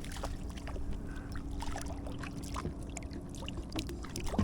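Water dripping and splashing at a kayak's side, with scattered small knocks and clicks of handling, over a steady low hum.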